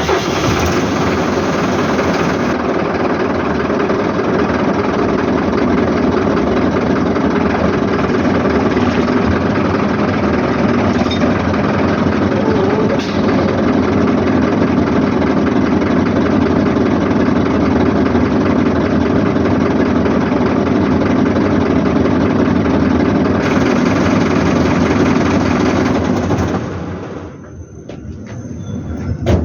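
Truck's diesel engine running steadily, then dropping away about 27 seconds in.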